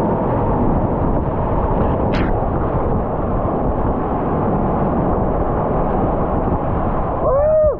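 Steady roar of whitewater rapids close to the camera microphone, with a brief sharp knock or splash about two seconds in and a short shout near the end.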